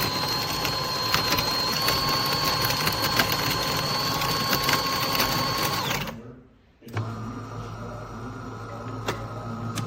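A small motor running with a steady whine, stopping about six seconds in; a second motor with a deep hum starts about a second later and runs steadily.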